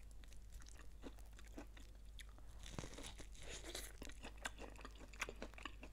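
Faint, close-miked chewing of food: soft crunches and small mouth clicks scattered irregularly throughout.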